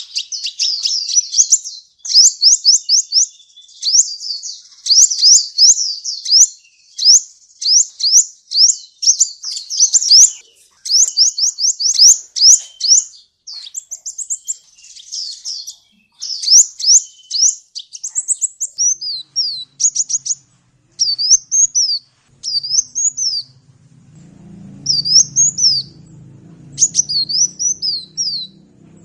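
Sunbird singing: bursts of rapid, high, sharp chirps, giving way in the second half to slower, separated up-and-down notes. A faint low hum runs underneath in the last few seconds.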